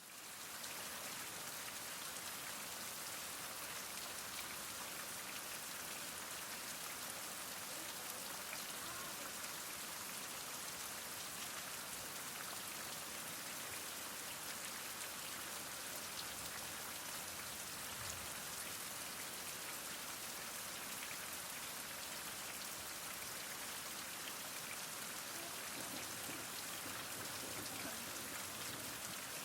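Heavy rain falling steadily, a dense even hiss of many drops. It fades in at the very start.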